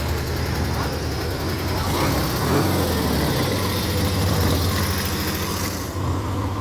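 Car engine idling with a low, steady rumble, louder and hissier for a few seconds in the middle.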